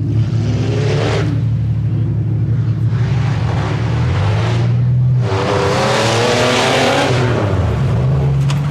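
Tuff truck's 4x4 engine working hard through the course: a steady low engine rumble with two sharp surges of revving, one right at the start and a stronger, longer one about five seconds in.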